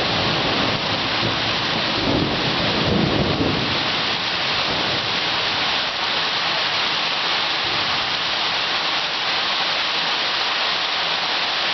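Heavy rain falling steadily, with a low rumble of thunder dying away over the first few seconds.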